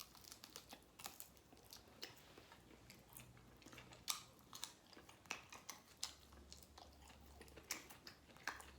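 Faint close-up chewing of spicy sauced chicken wings, with irregular soft mouth clicks.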